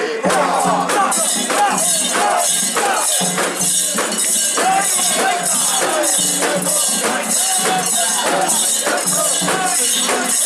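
A portable Shinto shrine's metal fittings jangling in a steady rhythm, about two jangles a second, as the mikoshi is bounced by its bearers, over their shouting and chanting voices.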